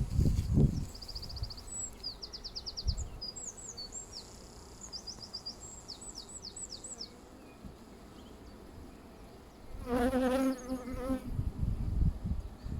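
A honeybee buzzes close past the microphone about ten seconds in, a wavering hum lasting about a second and a half. Before it, a small songbird sings quick high trills and chirps for several seconds.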